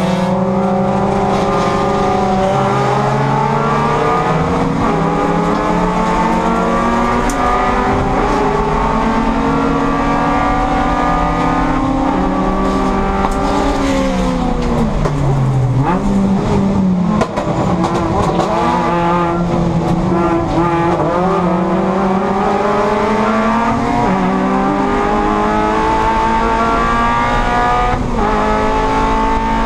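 Race-prepared Toyota Yaris four-cylinder engine running hard at racing speed, heard from inside the stripped-out cabin. Its pitch climbs steadily, falls sharply about halfway through, then climbs again under throttle.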